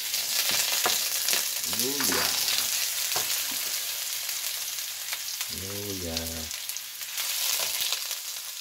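Garlic and freshly added ginger slices frying in hot oil in a stainless steel pot: a steady sizzle, with the taps and scrapes of a wooden spoon stirring.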